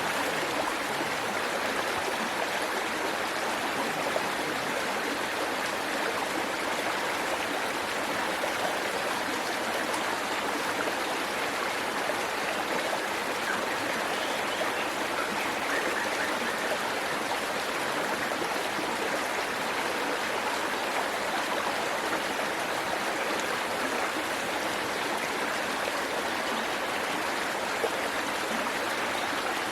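Small waterfall and stream, water splashing and rushing over rocks in a steady, even flow.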